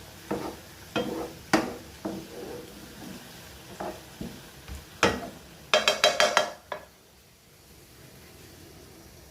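Cooking utensil knocking and scraping against a frying pan of sizzling mushrooms, with a quick run of clattering knocks about six seconds in. After about seven seconds only a faint steady hiss remains.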